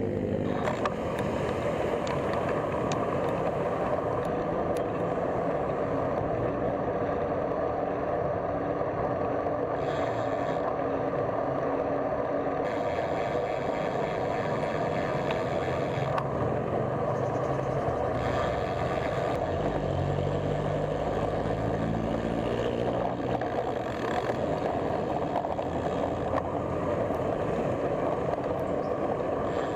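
Steady road traffic noise with wind, heard from a moving bicycle. A motor vehicle's engine rises in pitch as it accelerates past about twenty seconds in.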